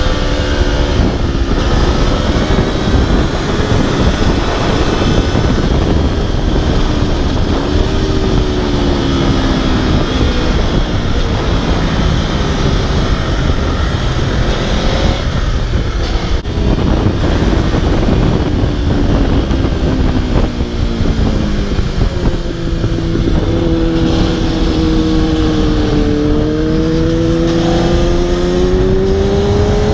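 Aprilia RSV4's V4 engine under hard riding, its pitch rising and falling as the rider works the throttle and gears, with a long steady climb in pitch over the last several seconds. A heavy rush of wind and road noise runs under it throughout.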